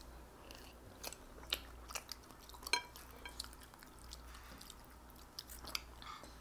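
Close-miked chewing of spicy instant noodles and Spam by two children, with scattered sharp wet mouth clicks.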